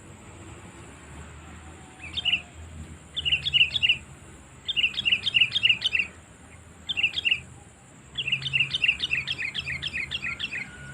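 Sooty-headed bulbul (kutilang) calling in runs of quick chirpy notes, each note dropping in pitch. There are five runs of two to about a dozen notes, the longest near the end. This is a lure call for drawing in wild bulbuls.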